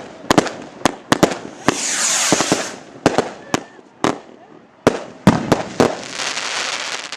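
Fireworks going off: about a dozen sharp bangs at an irregular pace, with a burst of hissing crackle about two seconds in and another near the end.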